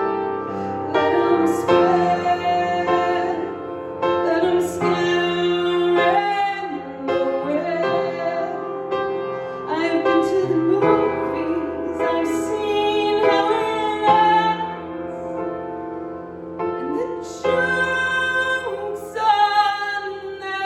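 A woman singing long held notes over piano accompaniment.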